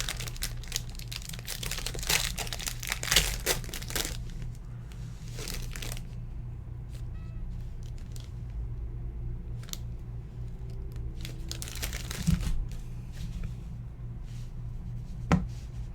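Trading card pack wrapper being torn open and crinkled: dense crackling for the first few seconds, then scattered softer crinkles and clicks.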